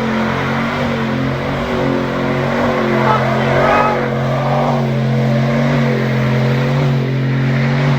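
Pit bike engine running at a steady speed, holding an almost constant note.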